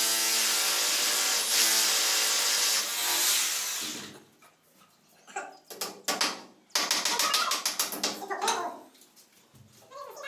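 Electric drill motor running steadily for about four seconds, then cutting off abruptly. A string of sharp clicks and knocks follows.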